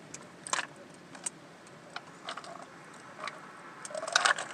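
A few small, sharp clicks and light handling noises from snacking, about one a second, with a short rising vocal sound near the end.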